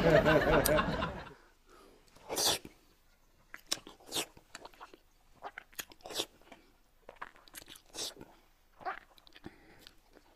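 A man's voice for about the first second, then close-miked eating: crisp bites and wet chewing smacks every second or so as a man eats with chopsticks.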